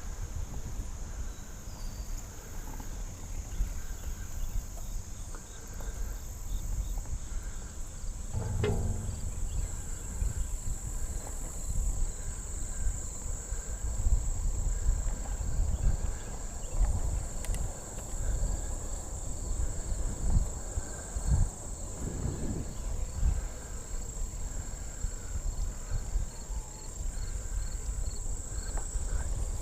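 Insects droning steadily at a high pitch, with a fainter pulsing chirp repeating about once a second, over an uneven low rumble of wind on the microphone while riding.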